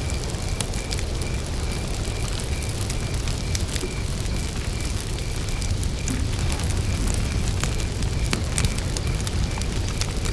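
Campfire burning wood, crackling with scattered sharp pops over a steady low rumble. A cricket chirps in steady, evenly spaced pulses behind it.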